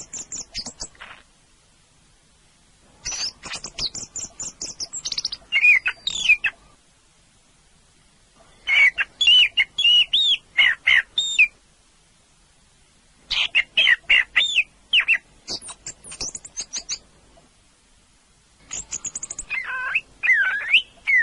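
Orange-headed thrush (anis merah) singing five phrases of rapid, varied, high-pitched whistled notes, each phrase one to four seconds long, with short pauses between them.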